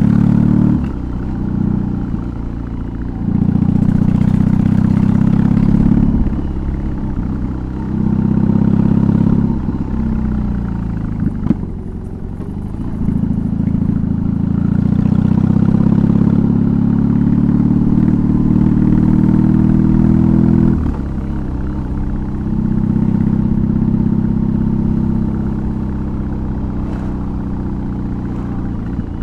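2022 BMW R18's big boxer twin running through a custom exhaust while riding. It pulls up through the revs, drops off and picks up again several times. In the middle comes one long steady climb in pitch that cuts off sharply.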